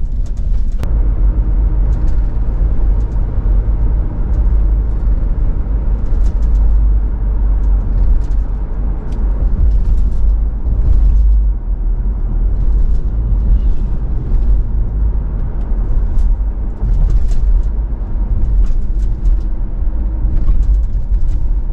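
Road noise inside a moving car: a steady low rumble of engine and tyres, with scattered light ticks over it.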